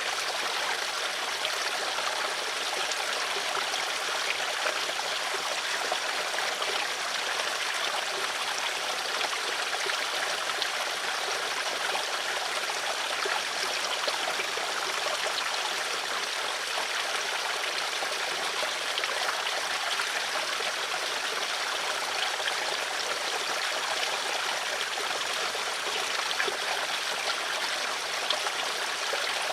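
Water flowing and trickling steadily, a stream with small splashes and gurgles.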